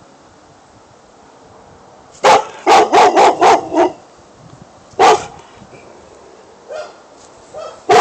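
A dog barking: after a couple of quiet seconds, a quick run of about six barks, a single bark about a second later, then a few fainter, shorter barks near the end.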